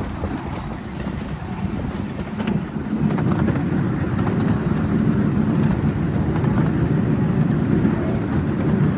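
Miniature ride-on railway train running along its track: a steady low rumble of the wheels on the rails that picks up slightly about three seconds in.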